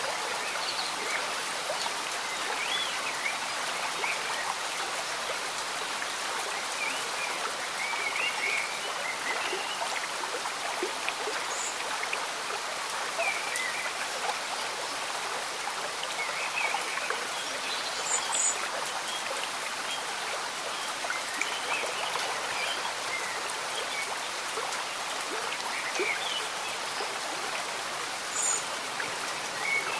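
A slow stream bubbling under gentle rain: a steady watery hiss with short high blips and chirps scattered through it.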